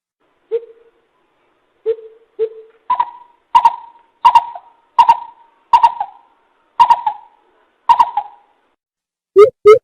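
Greater coucal calling: a few single deep hoots, then a slow run of about eight higher notes, each with a sharp start and spaced less than a second apart. Just before the end a loud, fast series of deep hoots begins.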